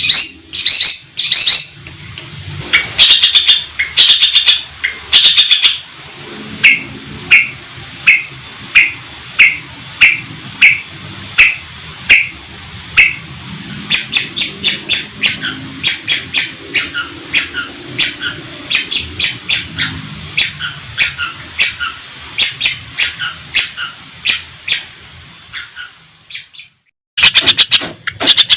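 Long-tailed shrike (cendet) singing loudly in a chattering series of sharp, repeated calls. Short trills at first give way to single notes at about one and a half a second, then a quicker run of notes. The calling breaks off abruptly near the end and starts again.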